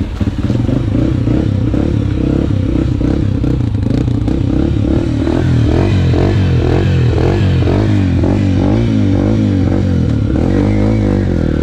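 Dirt bike engine running, its pitch rising and falling repeatedly as the throttle is worked, more clearly from about five seconds in.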